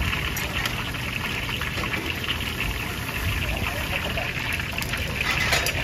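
Food frying in hot oil: a steady sizzling hiss with scattered crackles, over a low steady rumble and faint background chatter.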